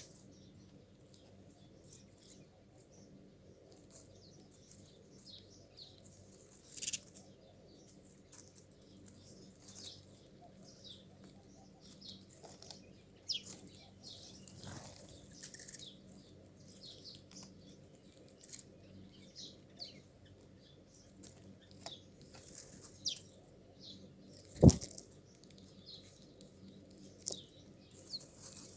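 Small birds chirping, short high calls scattered throughout over a steady low hum, with occasional sharp taps and one loud knock near the end.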